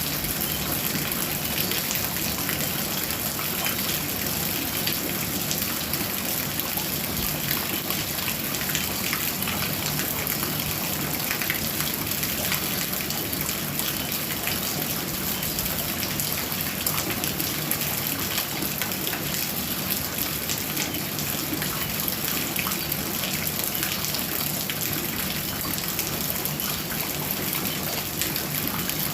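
Heavy rain pouring steadily: a dense, even hiss of drops hitting surfaces, with no let-up.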